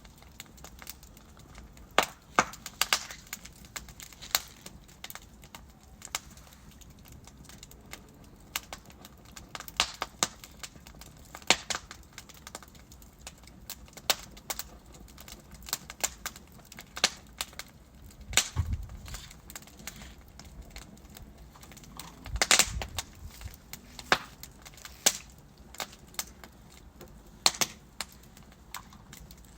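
Wood fire crackling in a fireplace: irregular sharp pops and snaps from burning logs over a low hiss, with a few louder pops, the biggest about two-thirds of the way through.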